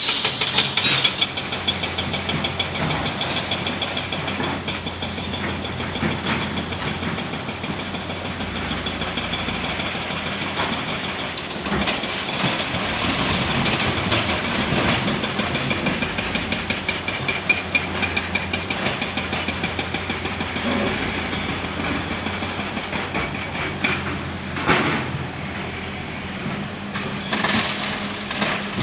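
Heavy diesel engines of a Komatsu PC650 excavator and dump trucks running steadily at a loading site, with a few sharp knocks along the way.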